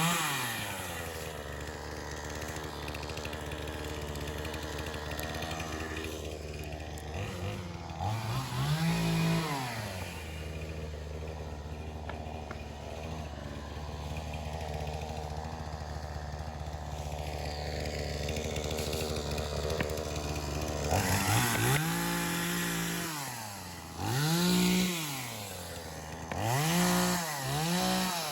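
Two-stroke chainsaw idling, revved up briefly once about a third of the way in, then revved up and back down several times near the end.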